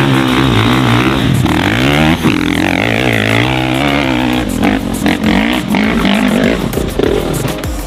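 Dirt bike engines revving hard on a steep hill climb, the pitch swinging up and down repeatedly as the throttle is worked.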